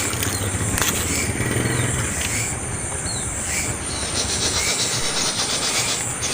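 A young bird's harsh, rasping begging calls, kept up without a break, the sound of a fledgling crying to be fed.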